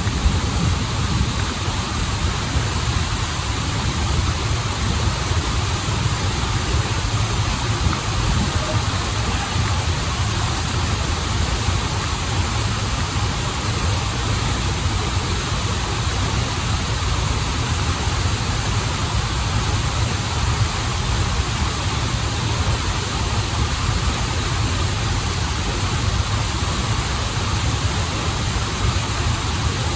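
Waterfall and river water rushing steadily, with a deep low rumble under the spray.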